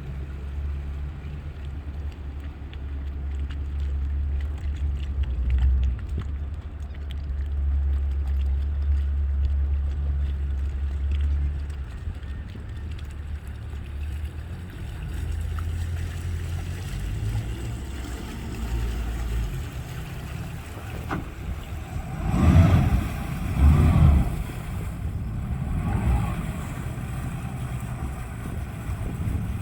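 A heavy engine running at low revs with a steady deep drone whose pitch shifts a few times, as the boat is brought up for loading. Two loud rushing surges come about three quarters of the way through.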